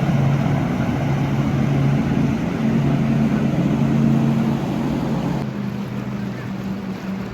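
Passing motorboat's engine droning with a steady hum over water noise, slowly fading as the boat moves away.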